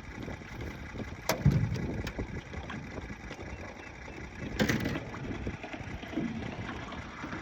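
Wind buffeting the microphone in a steady low rumble, with two sharp knocks, one about a second in and a louder one just before five seconds.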